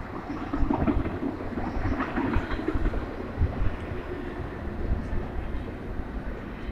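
A BNSF intermodal freight train rolling past, a steady low rumble with irregular knocks from its wheels on the rails.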